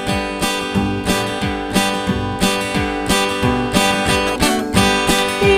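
Acoustic guitar strumming chords in a steady, even rhythm of about two strums a second: the instrumental intro to a children's song.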